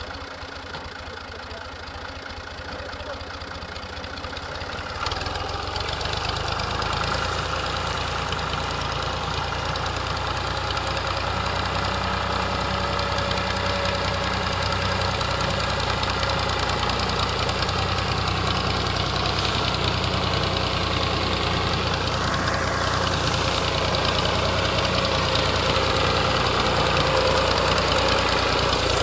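Fiat tractor's diesel engine running steadily while pulling a loaded trolley. It grows louder over the first several seconds, then holds level.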